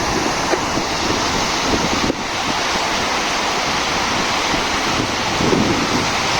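Wind buffeting the microphone: a steady rushing noise with an irregular low rumble.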